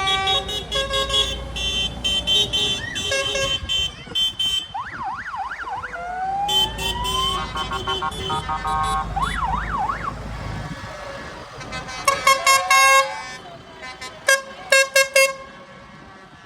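Tractors passing with engines rumbling, sounding their horns: held horn notes, a fast up-and-down warbling siren twice, then a run of short horn toots near the end.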